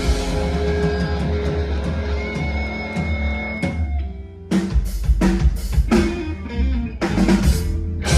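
Live rock band with electric guitar, bass and drum kit playing loud; a little under four seconds in the music drops back briefly, then the band plays a run of sharp, separate accented hits.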